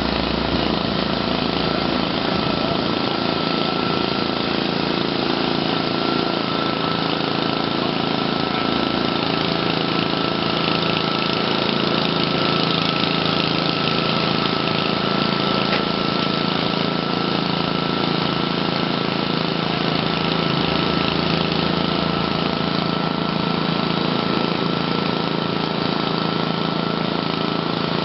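An engine running steadily at idle, with one thin steady whine held over it throughout.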